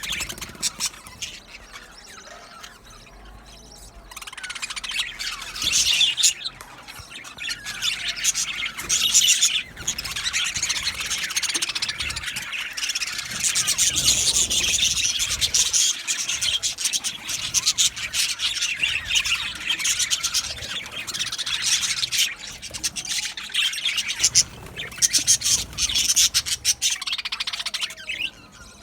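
A colony of budgerigars chattering and chirping together, a dense stream of high warbles and squawks, sparser for the first few seconds and fuller from about four seconds in.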